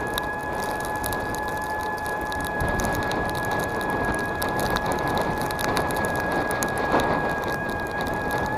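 Electric mobility scooter's drive motor whining at a steady pitch while it travels through snow, over a noisy rush with many small crackles and ticks of snow or sleet.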